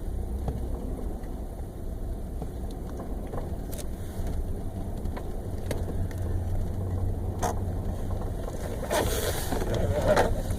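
Ford F-150's three-valve V8 heard from inside the cab at low idle speed as the truck creeps through slow turns: a steady low drone with a few light clicks. The truck has a rough, hunting idle that has made it stall since a recent tune-up.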